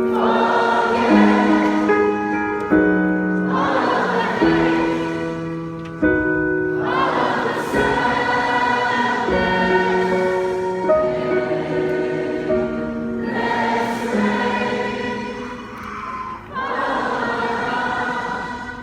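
Many voices singing together like a choir in long held phrases, with short breaks between phrases, over music.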